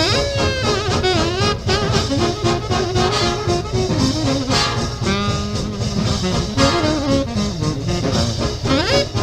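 Up-tempo swing jazz instrumental passage with a horn section playing over a fast, steady rhythm, with sliding brass notes near the start and again near the end.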